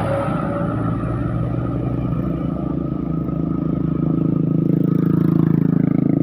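A road vehicle's engine running steadily, growing louder from about four seconds in as it draws near.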